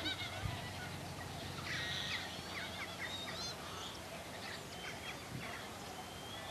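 Wild birds calling: a string of short calls that rise and fall in pitch, several overlapping, busiest about two seconds in.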